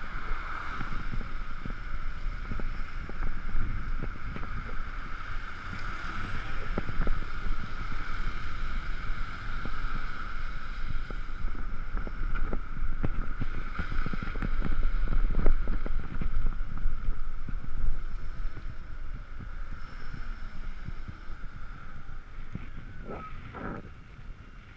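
Riding an Ekoway ML5000 electric scooter: wind rushing over the microphone with road and tyre noise, a steady high whine from the drivetrain, and scattered knocks from bumps. Near the end the whine slides down in pitch and everything gets quieter as the scooter slows.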